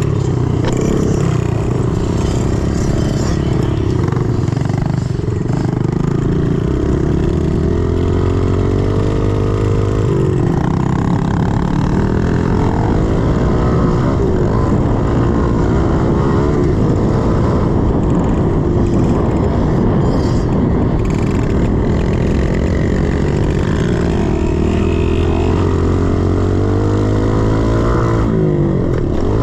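110cc single-cylinder four-stroke pit bike engine working hard around a dirt track, its pitch climbing and dropping over and over as the throttle is opened and rolled off through the gears.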